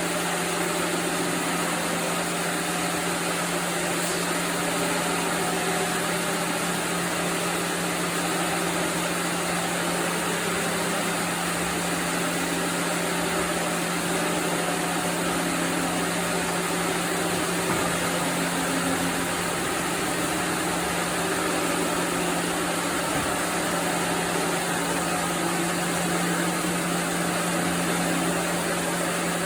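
Sawmill machinery running steadily: a constant low hum over a wide even noise, with no cut starting or stopping.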